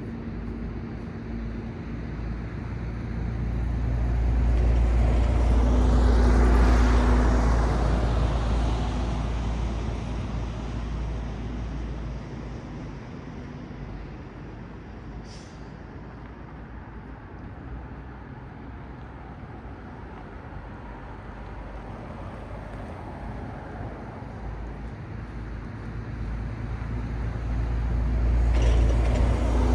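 Cars passing on a road: one vehicle swells up to its loudest about six or seven seconds in and fades away, leaving a steady low traffic rumble, and another vehicle approaches near the end. A brief high click about halfway through.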